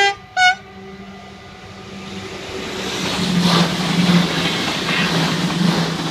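NS SGMm Sprinter electric train sounds two short horn blasts, then runs past over the level crossing. Its running noise swells, peaks with a few wheel clacks and begins to fade. The crossing's warning bells ring steadily throughout.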